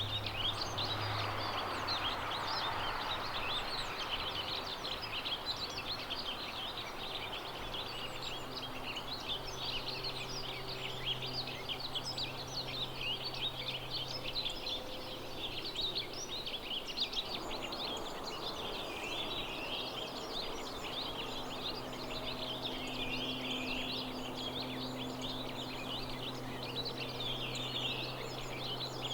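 Dense chorus of small songbirds: many short, overlapping chirps and calls, over a faint steady low hum.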